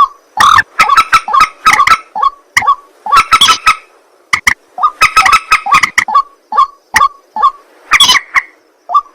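Ruak-ruak (white-breasted waterhen) calling over and over: short, coarse notes come several a second in clusters, with brief pauses between.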